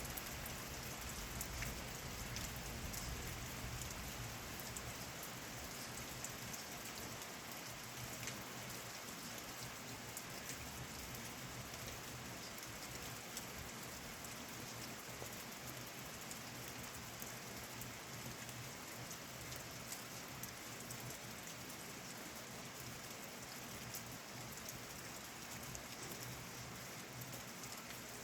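Steady summer thunderstorm rain falling, with many individual drops ticking. A low rumble fades away over the first few seconds.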